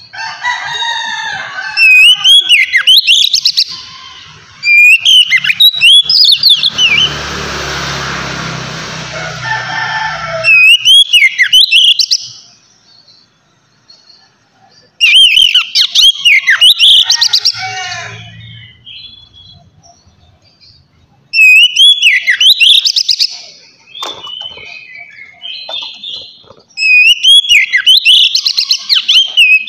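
Oriental magpie-robin (kacer) singing loud 'ngeplong' song: about six bouts of sharp, quickly gliding whistles and clicking notes, broken by short pauses. Early on there is a rough, noisy stretch with a low rumble lasting about three seconds.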